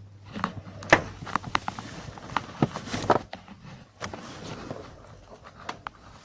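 Irregular sharp clicks and knocks, the loudest about a second in and a cluster around the middle, from a Honda CR-V door and its door check (limiter) being worked.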